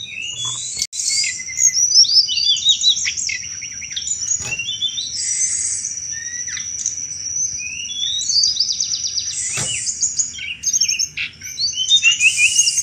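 Tledekan gunung songbird singing continuously: a dense, fast run of high chirps, down-sweeping notes and rattling 'cetrekan' chatter over a thin held whistle.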